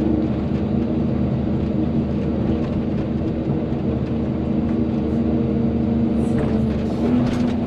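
Volvo EC220DL excavator's diesel engine running steadily under working load, with a few short knocks near the end.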